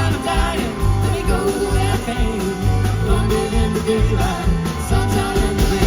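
Live country-rock band playing with a steady beat, a mainly instrumental stretch of the song.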